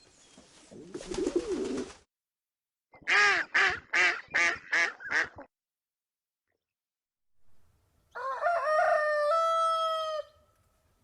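A pigeon cooing, then a chicken giving a quick run of about six clucks, then a rooster crowing once, one long call held steady and dropping at the end.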